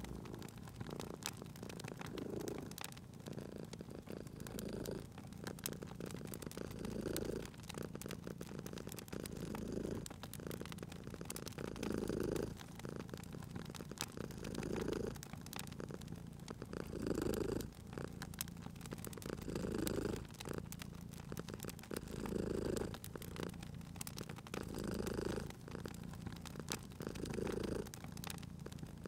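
A domestic cat purring, the purr swelling and fading with each breath about every two and a half seconds, over the scattered small pops and crackles of a wood fire.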